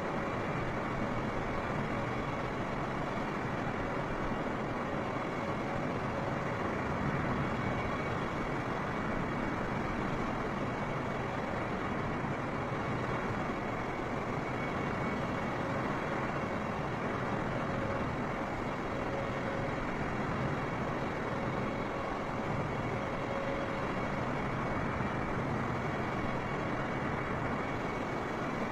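Steady jet airliner engine noise: an even rush with a few faint steady whining tones, holding constant throughout.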